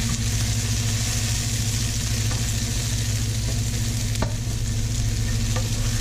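Pounded chili and garlic sizzling in oil as they are stir-fried, with a few light knocks of the spatula against the pan, the clearest about four seconds in. A steady low hum runs underneath.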